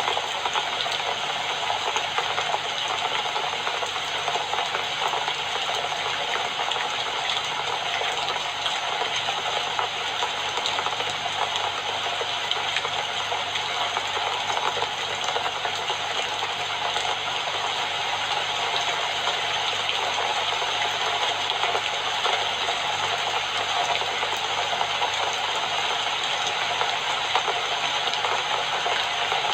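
Steady rain falling, an even hiss of many small drops that keeps the same level throughout.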